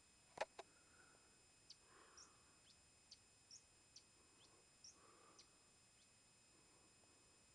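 Faint, short, rising high chirps of a small bird, one or two a second at irregular intervals, over near silence. A single sharp click sounds about half a second in.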